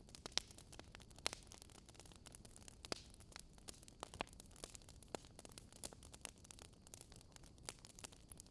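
Wood fire crackling faintly: irregular sharp pops and snaps, a few louder than the rest, over a soft steady hiss.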